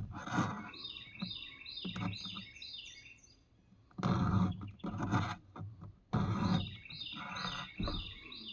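A bird sings two runs of quick, repeated, downward-sliding chirps. Beneath it a file rasps across chainsaw chain teeth in strokes under a second long, the loudest near the start and around the middle.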